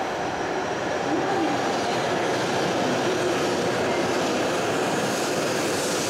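E7/W7-series Hokuriku Shinkansen train coming into a station along the platform: a steady rushing of the train running past.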